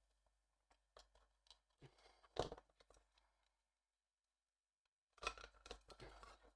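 Faint scattered clicks and rustles of small model parts being handled and pressed together while fitting them, with a louder cluster of handling noise about two and a half seconds in and another near the end.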